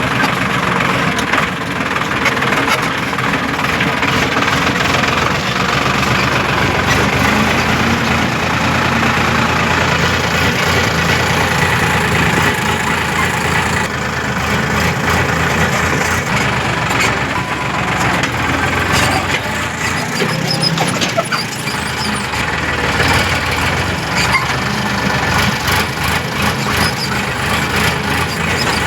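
Heavy diesel machinery running steadily: the engines of a backhoe loader and farm tractors at work.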